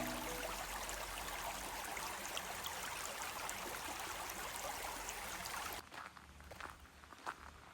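Steady rushing of a stream. About six seconds in it cuts to a much quieter stretch of footsteps on a forest path.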